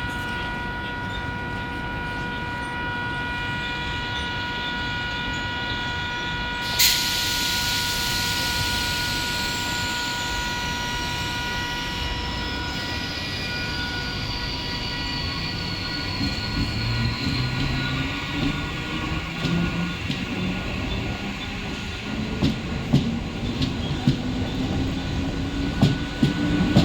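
Mumbai suburban electric local train at the platform: a steady electrical whine, then a sudden hiss of air about seven seconds in, followed by a slowly falling high whine. Later the traction motors rise steadily in pitch as the train gets moving, with wheels clacking over rail joints near the end.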